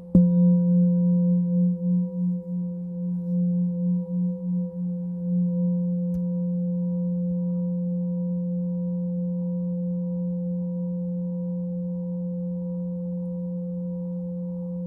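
Singing bowl struck once, then ringing with a low hum and fainter higher overtones. The tone wobbles in loudness for the first six seconds or so, then settles into a steady, slowly fading ring.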